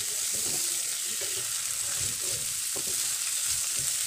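Shredded bottle gourd peel and potatoes sizzling in hot mustard oil in a kadai, turned over and over with a spatula. Steady hiss throughout, with irregular scraping and rustling as the spatula strokes the pan.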